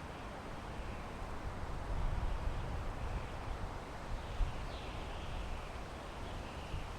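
Wind blowing through pine trees: a steady rushing hiss with a low rumble that swells and eases in gusts.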